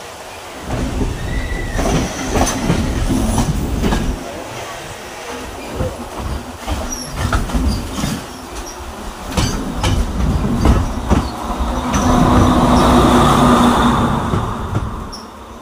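Passenger train passing close by: its wheels clatter and knock over the rail joints with a heavy rumble. Near the end comes a louder steady rush with a hum, and then the sound fades as the train moves away.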